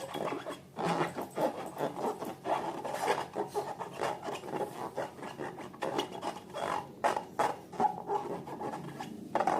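Slime being squished and stretched by hand: a continuous run of irregular sticky clicks, crackles and rubbing.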